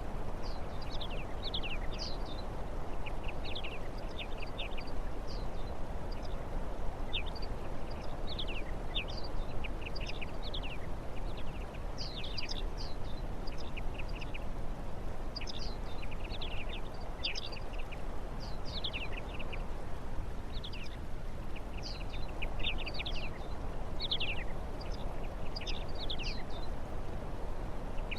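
Small birds chirping in quick clusters of short, falling notes over a steady background noise.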